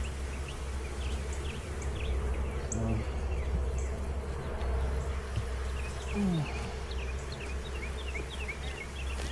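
Honeybees buzzing in a steady hum around an open hive, with a single drone falling in pitch about six seconds in.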